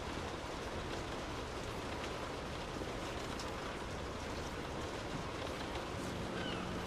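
Steady rain falling, an even hiss with scattered drop taps. A low steady hum joins near the end.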